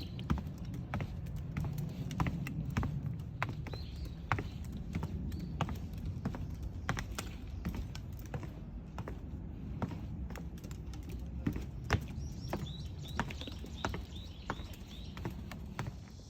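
A puppy tearing and chewing grass: irregular crisp crunching and snapping clicks.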